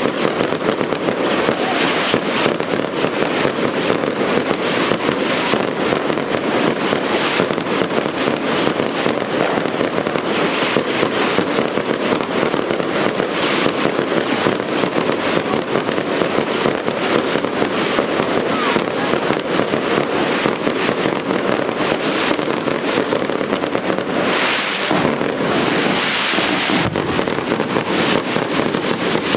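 Daylight fireworks: a dense, continuous barrage of firecracker bangs going off in rapid succession, a steady rattling din. There is a brief swell of hiss about 25 seconds in.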